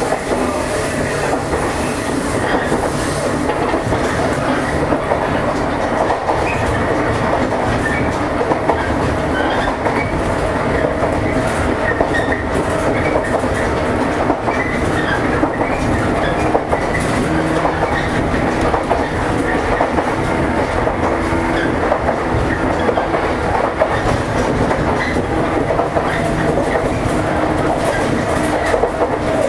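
JR East 115 series electric train running at speed, heard from inside the car: a steady rumble of wheels on rail with the clack of rail joints.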